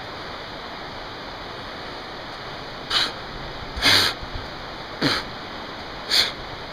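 Steady rush of creek rapids. In the second half, four short, sharp bursts come about a second apart and are louder than the water.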